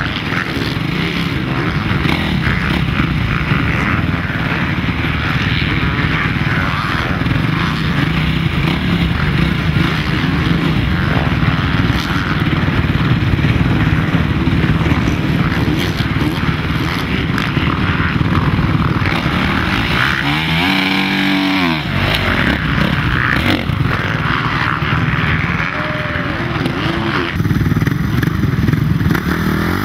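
Dirt bike engine running at low speed with the throttle worked on and off, with a clear rev that rises and falls about 21 seconds in and another near the end.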